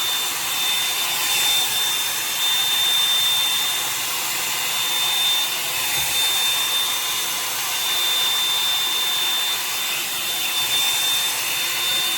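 Revlon One-Step hair dryer brush running steadily, a blowing hiss with a thin high whine held throughout.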